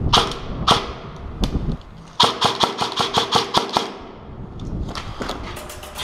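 Airsoft guns firing: a few single shots, then a rapid string of about ten shots between two and four seconds in, and more shots near the end.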